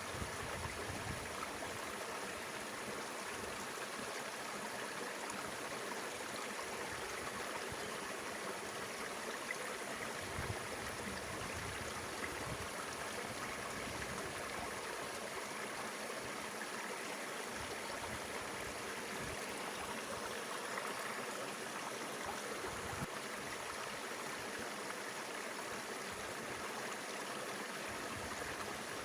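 Mountain river flowing, a steady, even rush of running water, with a few soft low thumps here and there.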